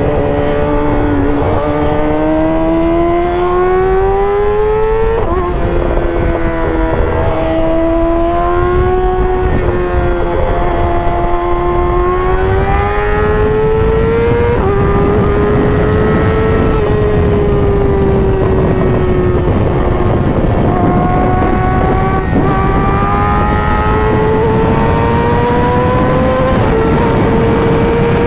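Inline-four sport-bike engine pulling hard at highway speed. Its pitch climbs for several seconds and drops sharply at each gear change, three times, with heavy wind rush underneath.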